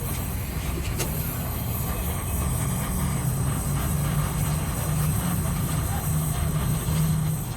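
A vehicle engine running steadily, with a low rumble and a wavering drone, and a single click about a second in.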